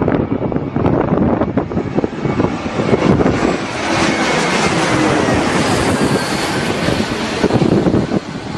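Jet aircraft passing at a runway, its engine noise swelling from about two seconds in with a faint falling whine and easing off near the end, over wind buffeting on the microphone.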